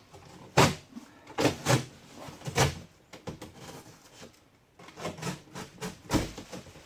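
Knife cutting down the edge of a heavy cardboard box, heard as an irregular run of short scraping, tearing strokes and knocks, with a heavier thump near the end.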